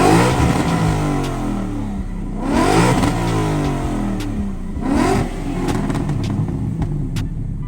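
A car engine being revved three times, about two and a half seconds apart, each rev climbing and then falling back toward idle. A few sharp cracks come near the end.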